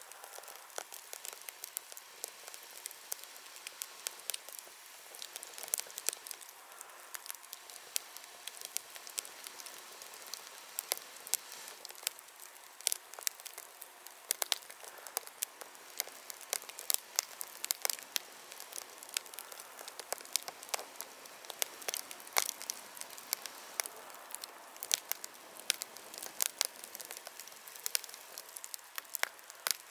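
Wood bonfire crackling: frequent irregular sharp pops over a steady soft hiss of the flames.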